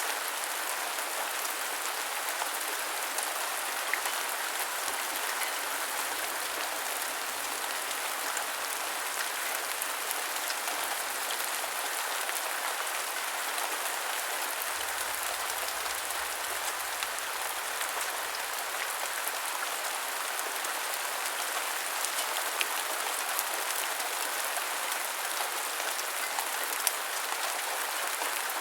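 Steady heavy rain falling on a surface, an even hiss with scattered sharper drop ticks.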